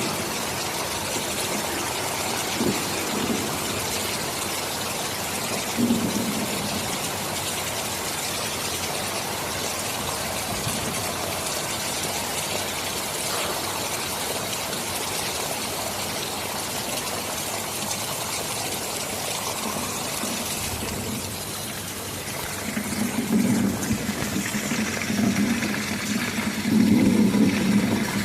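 Steady heavy rain, a dense even hiss, with low rumbles of thunder: a short one about six seconds in and several swelling rolls in the last few seconds.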